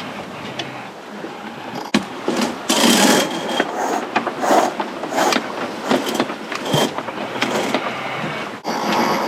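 Sailboat deck hardware being worked while rigging the mainsail and its preventer: repeated sharp clicks and clatters, about two a second from about two seconds in, over a steady rush of wind and water.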